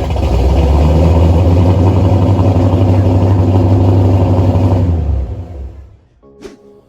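Ford 460 big-block V8 with long-tube headers and Thrush mufflers running loudly at a steady speed through its exhaust, then dying away about five seconds in.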